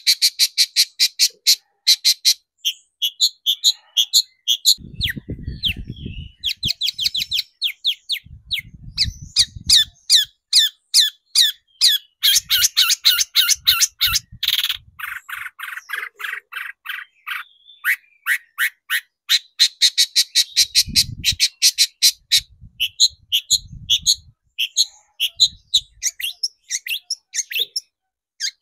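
Long-tailed shrike (cendet) singing a fast, harsh chattering song of sharp high notes, about five a second, in long runs with brief pauses. Several short low rumbles sound underneath at times.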